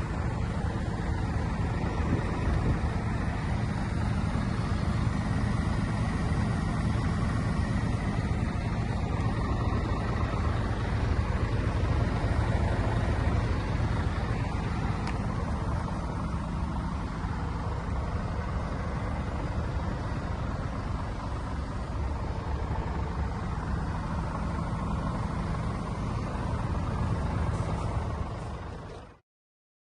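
Scania P124 420 truck's 12-litre straight-six diesel running steadily at an even speed, with no revving. The sound cuts off abruptly near the end.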